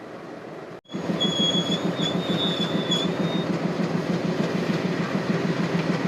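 WDG-3A diesel locomotive's ALCO engine running with a steady rhythmic throb close by, with a high metallic squeal for about two seconds, starting about a second in.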